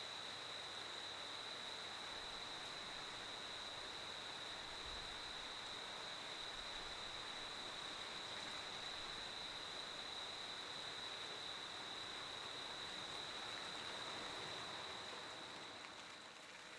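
A cricket singing one continuous, unbroken high-pitched trill over a soft, even background hiss.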